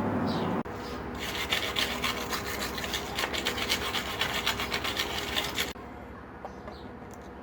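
Rapid rasping strokes of a hand tool scraping back and forth over a surface, running for several seconds and stopping suddenly. Just before them, a steady machine hum cuts off abruptly, and a few faint bird chirps follow.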